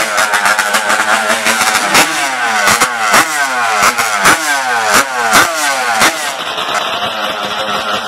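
A drag-racing engine revved hard over and over, its pitch climbing and snapping back down about twice a second, with a sharp crack at each drop, before it settles to a steadier noise near the end.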